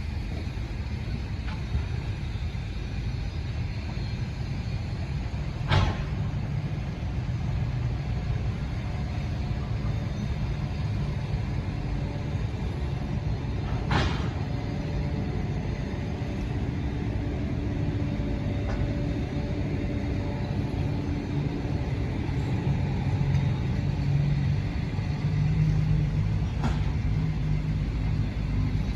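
Passenger train rumbling steadily, with two sharp metallic clicks, about 6 and 14 seconds in, and a faint hum that grows in the second half.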